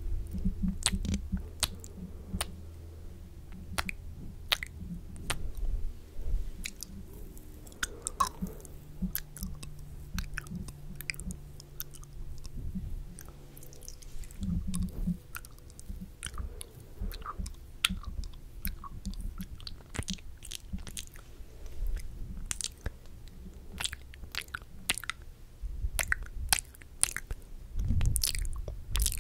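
Mouth sounds made close to a microphone: an irregular run of wet clicks, smacks and chewing-like noises.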